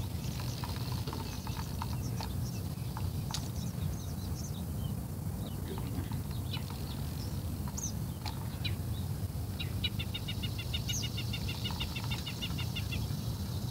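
A bird sings a rapid, even trill of short high notes for about three seconds near the end, over a steady low rumble, with scattered short chirps earlier.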